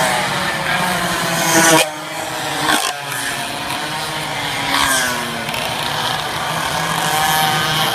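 Racing minibikes' small engines buzzing at high revs, several passing by with the pitch sliding up and falling away, and a sudden drop in loudness about two seconds in.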